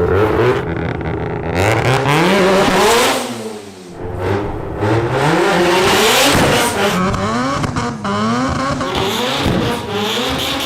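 Rotary-engined car revving hard, the engine note climbing and falling again and again, with a brief drop about a third of the way in.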